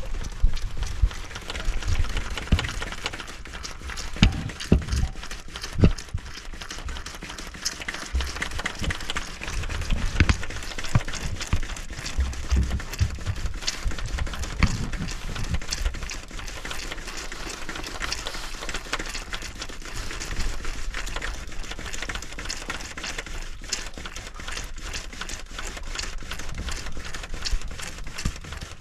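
Hand priming pump on an excavator's diesel fuel system being worked over and over: a steady run of quick clicks and clacks, with heavier low thumps mostly in the first half. The pump is priming a fuel system that has lost prime and still seems to be drawing air.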